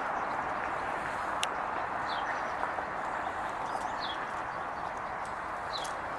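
A bird repeats a short, high, falling chirp about every two seconds over steady outdoor background noise, with a single sharp click about a second and a half in.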